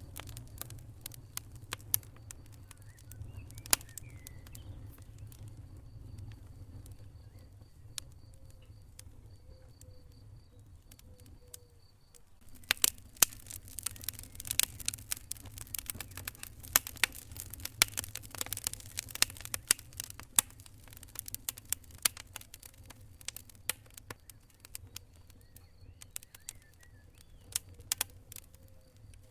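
Wood fire in a fireplace crackling, with sharp pops over a low steady rumble. The pops grow thick and fast a little before halfway and thin out again for the last several seconds.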